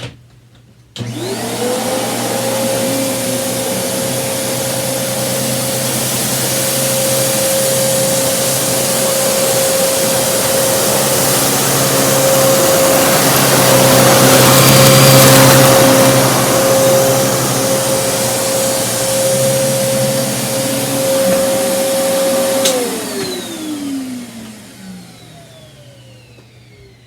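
Kenmore Progressive upright vacuum cleaner switched on about a second in, its motor whine rising quickly to a steady pitch, running loud while sucking up uncooked rice from the floor, loudest in the middle. Near the end it is switched off and the motor winds down with a falling whine.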